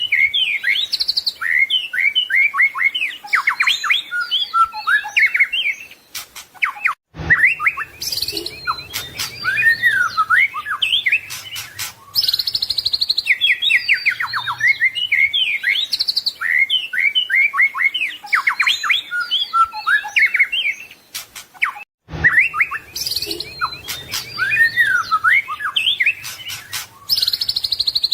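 White-rumped shama (murai batu) singing continuously: a fast, varied run of whistled phrases, trills and rising and falling notes, packed with mimicked phrases. The song cuts out briefly twice, about seven seconds in and near twenty-two seconds, then starts again.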